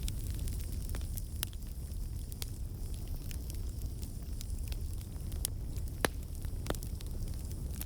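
Campfire burning: a steady low rumble of flames with irregular sharp crackles and pops of burning wood, one louder pop about six seconds in.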